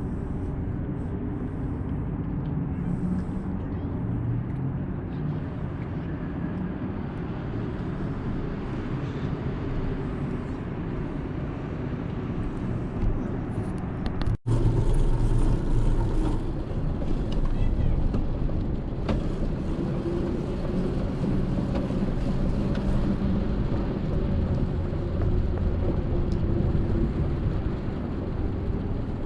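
Steady low engine rumble, a little louder after a brief break about halfway through.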